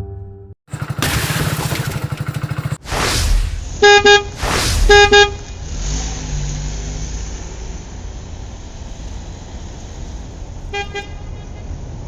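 Cartoon vehicle sound effects: a pulsing engine buzz, then two whooshes and three pairs of short horn toots over a steady engine running underneath.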